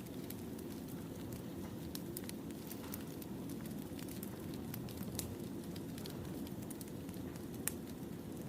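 Wood fire burning: a steady low rumble with scattered sharp crackles and pops, one louder pop near the end.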